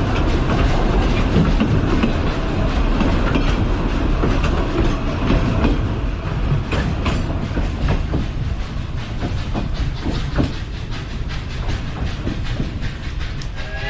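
Narrow-gauge passenger train cars rolling past, wheels clacking over the rail joints with a steady rumble that eases over the last few seconds as the train draws away into the tunnel.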